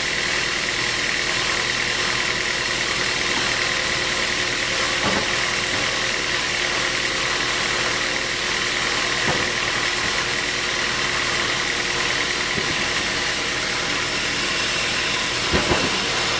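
Sawmill machinery running steadily, an even mechanical drone with a few short knocks, two close together near the end.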